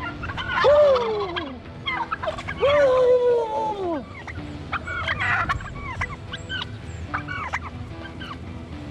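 Domestic turkeys calling and gobbling. Two long calls rise and fall in the first four seconds, followed by many short, quick calls.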